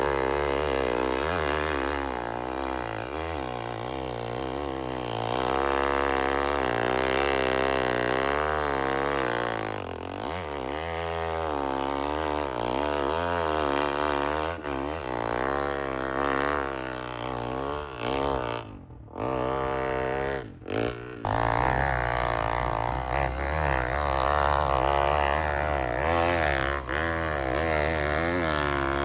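Dirt bike engine revving hard under load on a hill climb, its pitch rising and falling over and over with the throttle. About two-thirds of the way through it drops away sharply twice, briefly, then pulls hard again.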